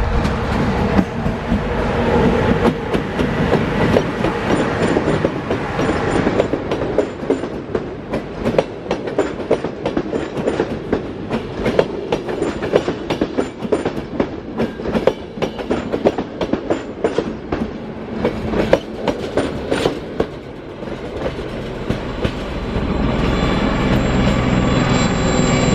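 Passenger train passing close by, its wheels clattering rhythmically over the rail joints as the coaches roll past. The clatter stops about twenty seconds in, and a steady drone builds near the end.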